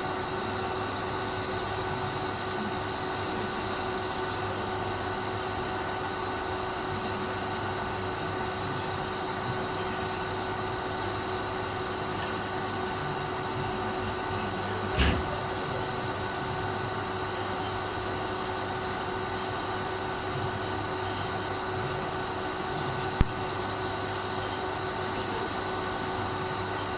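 TIG welding arc burning steadily with an even buzzing hiss. A short knock sounds about halfway through and a sharp click a little later.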